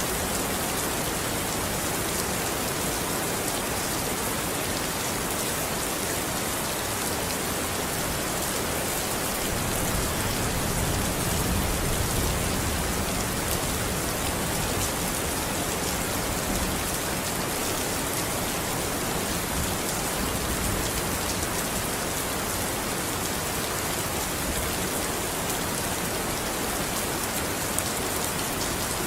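Steady rain falling, an even hiss, with a low rumble swelling up about ten seconds in.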